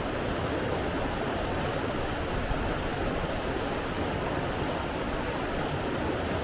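Steady rushing water, an even unbroken wash of sound with no surges.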